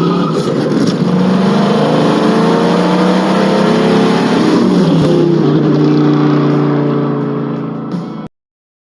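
A car engine revving, its pitch rising and falling through several revs, then cutting off abruptly near the end.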